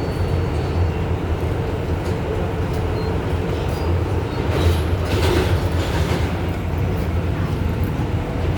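R188 subway car running between stations, heard from inside the car: a steady low rumble of wheels and traction motors, with a brief swell of hissing noise about five seconds in.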